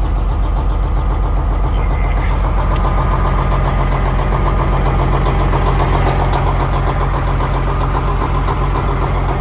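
Semi truck's diesel engine idling steadily just after a cold start, running a little rough while it warms up.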